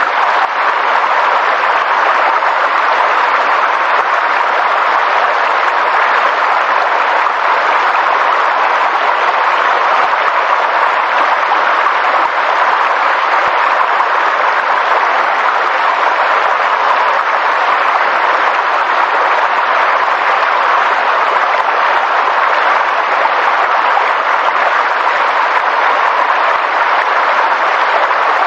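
Steady, even rushing of water that goes on without a break.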